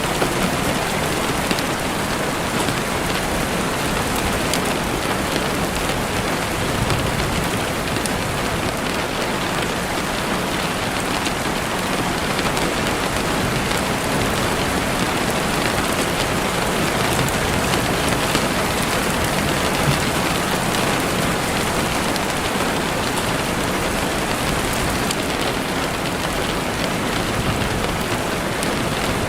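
Heavy rain on a window: a steady, even rush of rain with no let-up.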